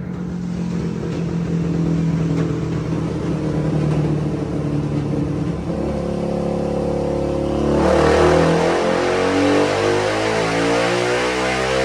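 Suzuki DR-Z400 single-cylinder four-stroke engine with an MRD exhaust, running on a dyno. It runs steadily, then about eight seconds in the throttle opens and the engine gets louder, with the revs climbing.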